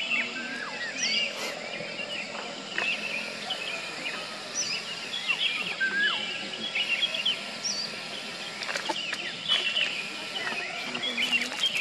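Several birds singing and chirping over a steady outdoor hiss, one of them repeating a short high whistle that drops at its end about every three seconds.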